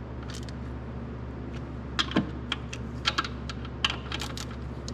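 Socket ratchet clicking in short, irregular bursts while the connecting-rod cap bolts are snugged down, over a steady low hum.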